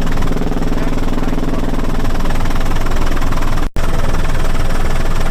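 Helicopter turbine engine and rotor running steadily, a loud, constant drone with a fast low pulsing from the blades. The sound drops out sharply for an instant about three-quarters of the way through.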